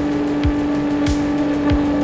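A CF Moto 675SS's three-cylinder engine with an aftermarket exhaust, held at one steady engine speed at highway cruise, over wind and road noise. Short low whooshes recur about every 0.6 seconds.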